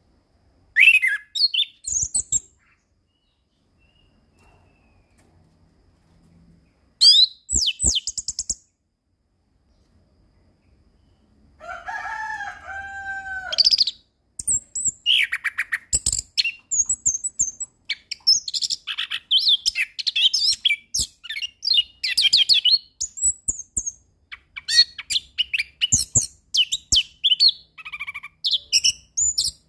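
Orange-headed thrush singing: two short bursts of high, rapidly varied phrases with pauses between them, a lower two-part whistled phrase near the middle, then near-continuous rapid, varied song through the second half.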